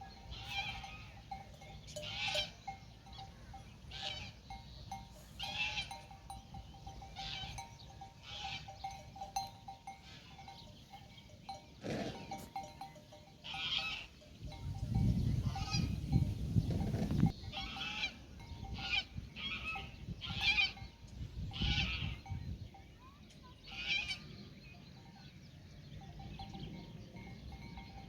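Bells on grazing livestock clanking irregularly, one every second or two, with a few low rumbles partway through.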